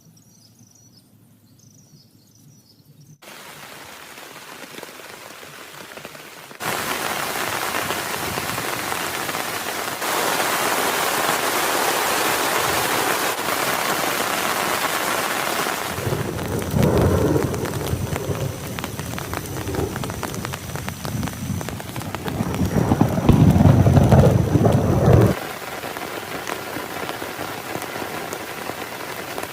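Heavy rain falling, stepping up abruptly several times as the sound cuts from one rain clip to the next; thunder rumbles twice in the second half, the second louder. It opens quietly with a few faint high chirps.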